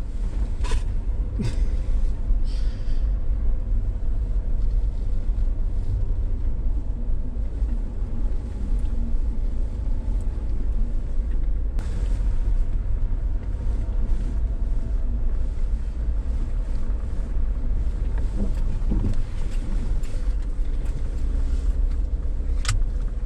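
A Jeep running in four-wheel-drive low, heard from inside the cabin: a steady low drone of engine and drivetrain as it crawls slowly downhill. A few faint clicks come near the start and one near the end.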